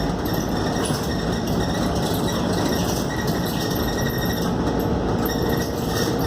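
Cabin noise aboard a Scania K280UD double-decker bus on the move: steady engine and road rumble with light rattling from the bodywork. A faint steady whine comes in about two-thirds of the way through.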